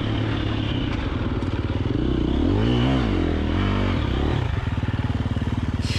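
KTM 350 XC-F dirt bike's single-cylinder four-stroke engine running at low revs, rising and falling in pitch with a blip of throttle about halfway through, then chugging slowly near the end. It is being lugged in too high a gear, by the rider's own account.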